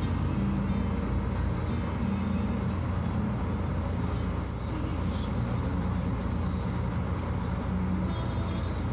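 Car cabin noise with the car stopped: a steady low engine idle rumble, with a higher hiss that comes and goes.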